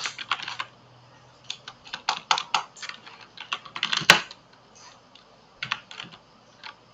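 Typing on a computer keyboard: irregular runs of keystrokes with short pauses between them, and one louder, sharper click about four seconds in.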